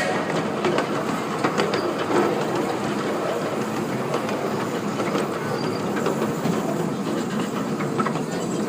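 Miniature ride-on railway train running along the track: a steady rolling rumble with scattered clicks of the wheels over the rail joints.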